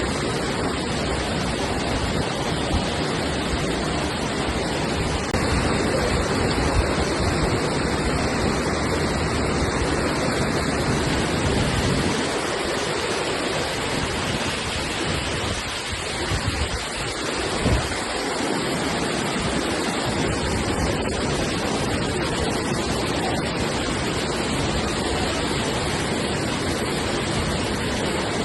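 Floodwater rushing past in a steady, continuous noise, with a brief thinning of the low end about halfway through.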